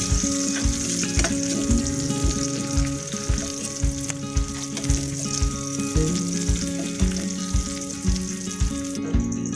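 Chopped red onion and garlic sizzling in hot oil in a nonstick wok while a metal spatula stirs them. The sizzle cuts off near the end. Background music with a steady beat plays underneath.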